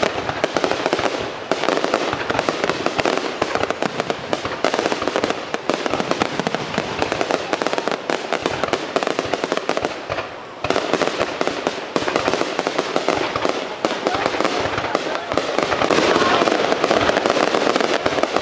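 Aerial fireworks going off in a dense, continuous run of rapid bangs and crackling. The barrage drops off briefly about ten seconds in, then resumes.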